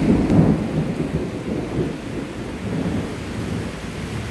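Thunder rumbling over steady rainfall, the rumble loudest in the first half-second and then rolling on more quietly.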